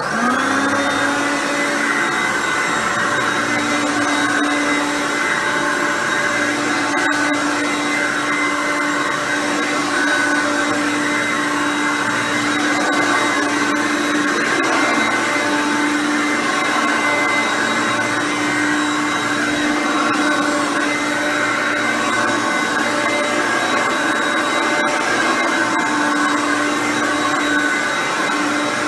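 Hoover Concept One U4219 upright vacuum cleaner switched on. Its motor spins up within a moment, then runs steadily on its normal setting, not Power Surge.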